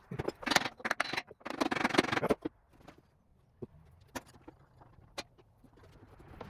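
Metal drill press parts clinking, knocking and scraping against each other as they are handled and fitted together, busiest in the first two and a half seconds, then a few light taps.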